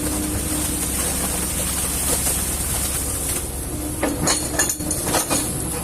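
Kobelco excavator's diesel engine running steadily, with a quick cluster of sharp metallic clinks and knocks about four seconds in.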